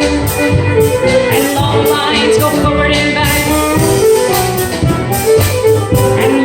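Live contra dance band playing a fast reel: fiddle melody over keyboard, mandolin and percussion with a steady driving beat.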